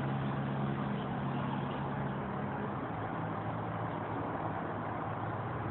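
Steady low motor hum, like an engine or machine running in the background; its highest tone drops out about three seconds in.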